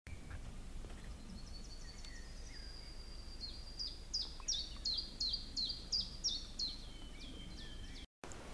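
A songbird singing: a few thin high notes, then a run of about a dozen high notes, each slurring downward, repeated about three times a second.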